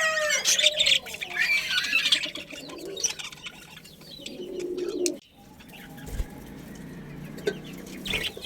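Mixed bird calls: the end of a rooster's crow falling away at the start, then chirping and calling from several birds. The sound drops out abruptly about five seconds in, then quieter calls resume.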